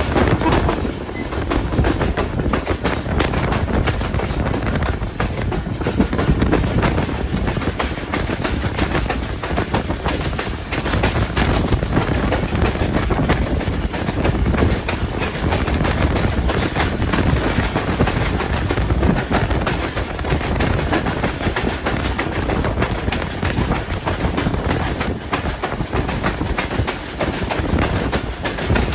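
Hazara Express passenger train running on the line, its wheels clattering steadily over the rail joints with continuous rumbling track noise.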